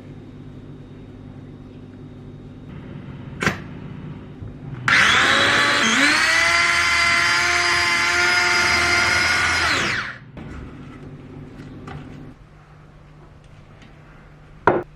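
A small electric kitchen appliance motor spins up with a rising whine, runs steadily for about five seconds, then cuts off. A sharp knock comes before it and another near the end.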